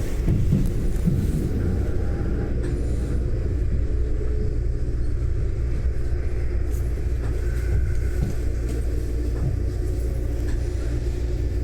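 Sanyo Electric Railway train running between stations: a steady low rumble of wheels on rail and running gear.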